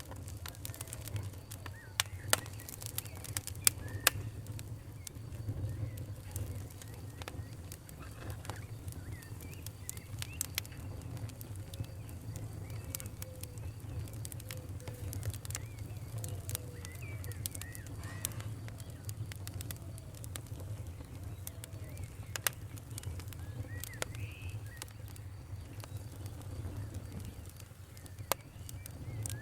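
Campfire crackling, with irregular sharp pops and snaps over a steady low rumble. Birds call faintly in the background.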